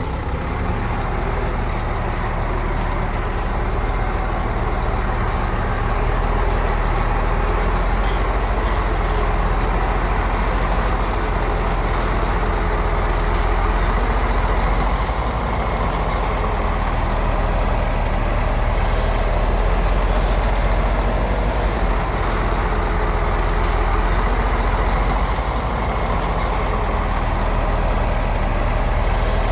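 Heavy diesel engine of construction machinery running steadily with a deep, even low rumble.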